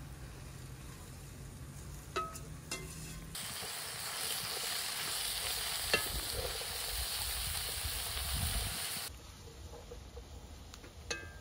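Two light metal clinks, then food sizzling in hot oil in a cooking pot for about six seconds, the sizzle starting and stopping abruptly.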